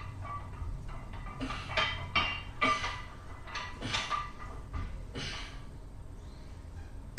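A warm-up set of flat barbell bench presses: a string of short, sharp breaths and light knocks of the bar, the strongest coming roughly every second and a half, one per rep.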